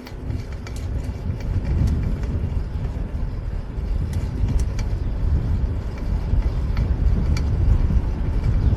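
Street noise heard while riding a fixed-gear bike in city traffic: a steady low rumble of wind and passing vehicles that grows louder over the first couple of seconds, with scattered light clicks and ticks.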